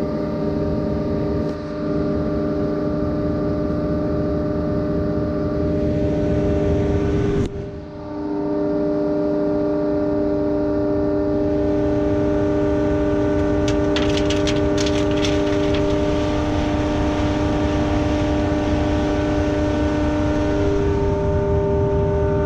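Diesel engine of a truck-mounted concrete pump running steadily. The sound briefly drops out about seven and a half seconds in, then picks up again, and a few sharp clicks come around two-thirds of the way through.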